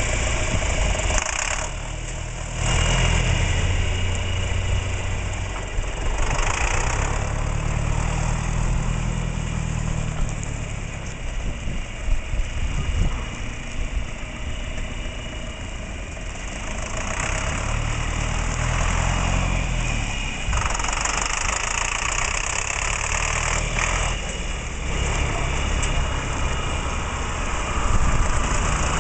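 John Deere 3020's four-cylinder diesel engine running steadily, its low note swelling and easing a few times.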